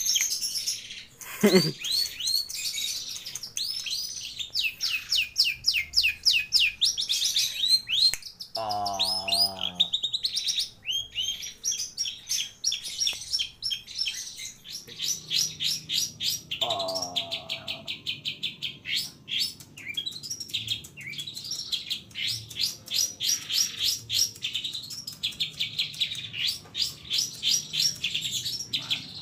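Long-tailed shrike (cendet) singing continuously: a fast run of sharp, high, repeated chirps. A falling sweep comes about a second and a half in, and lower wavering phrases come about nine and seventeen seconds in.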